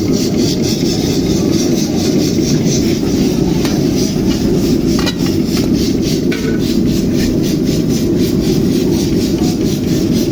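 A spatula stirring and scraping in a karahi, in quick regular strokes of about four a second that are clearest in the second half, over a steady low rumble.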